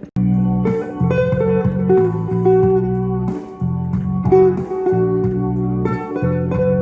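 Electric guitar playing an instrumental melody over repeated low bass notes, starting abruptly just after a held chord cuts off.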